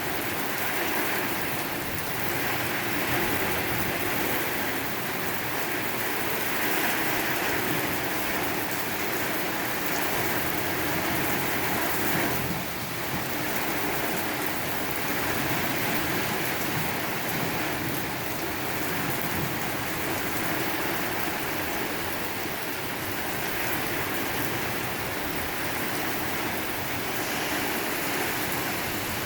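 Heavy rain pouring down steadily in a severe thunderstorm.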